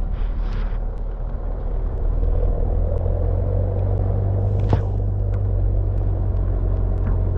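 A 4x4 driving on a dirt track: steady low engine and road rumble, with one sharp knock a little past halfway.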